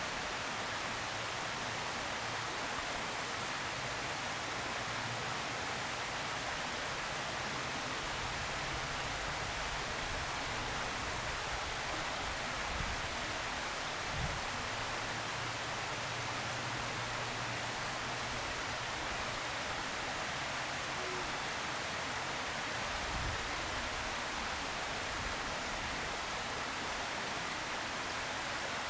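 Steady hiss-like outdoor background noise, with a faint low hum and a soft low thump about halfway through.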